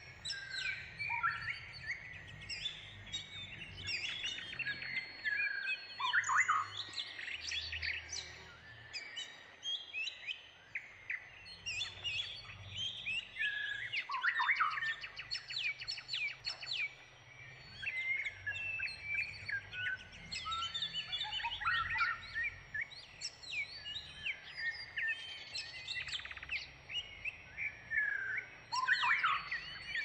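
Small birds chirping and singing over one another: a busy run of quick varied chirps, short trills and whistled glides, with a thin steady high tone sounding at times.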